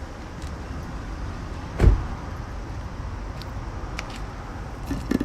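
A single dull thump about two seconds in, over a low steady rumble, with a few light clicks near the end.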